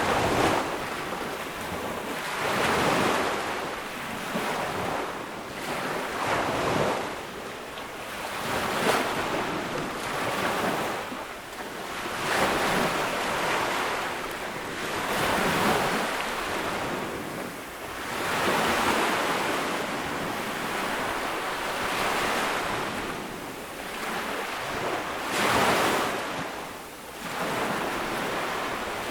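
Ocean waves breaking on a beach, a new wave washing in every few seconds with a rising and falling hiss of surf.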